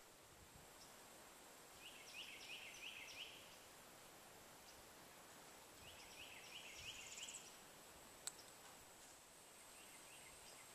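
A songbird singing faintly: two short phrases about four seconds apart, each a quick run of four or five repeated down-slurred notes. A single sharp click sounds near the end, over a faint steady high hiss.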